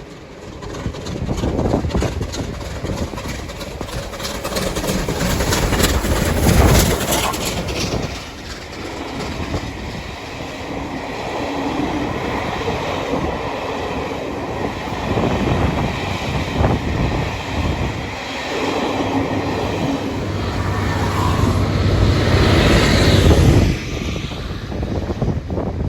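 Southern Railway Bulleid light Pacific steam locomotive 34067 'Tangmere', a three-cylinder engine, passing while hauling a train of coaches, followed by the clatter of carriage wheels over the rails. The sound is loudest about 7 s in and again just before it drops off sharply near the end.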